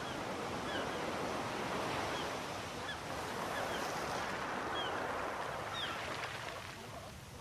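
Sea surf rushing on the shore, easing off near the end, with short high bird calls repeating over it.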